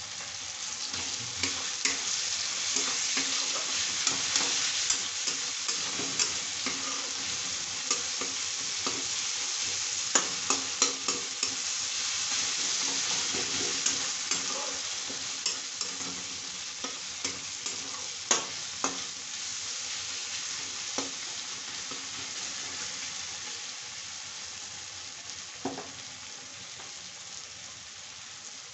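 Sliced onions and tomatoes sizzling in hot oil in a wok (kadai) as the tadka fries, stirred with a flat metal spatula that scrapes and clicks against the pan. The clicks come in small clusters, and the sizzle slowly fades toward the end.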